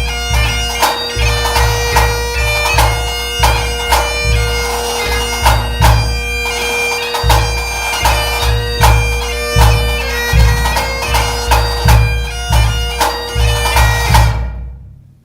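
Highland bagpipes playing a tune over their steady drones, with a bass drum beating a regular rhythm underneath; pipes and drum stop together near the end.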